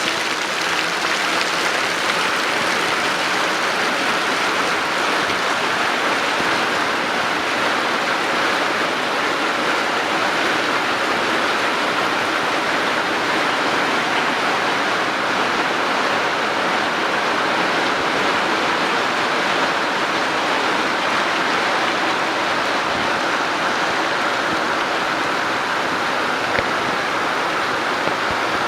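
Steady rushing water, an even wash of noise that holds at the same level throughout.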